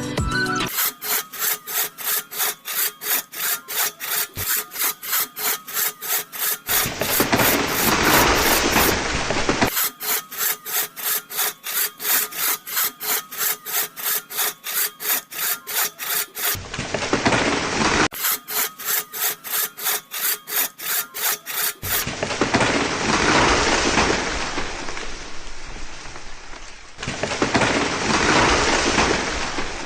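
A saw cutting through wood: quick even strokes about four a second, alternating with stretches of continuous rasping, with abrupt breaks between sections.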